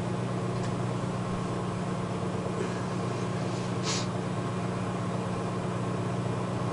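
A 600-watt microwave oven running steadily, powered through a 1500-watt pure sine wave inverter: an even, low hum with a fan-like hiss. It holds without cutting out and restarting, a sign that the inverter is carrying the load.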